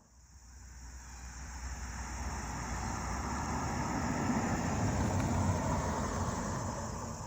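A car driving past, growing louder to a peak about five seconds in and then fading away.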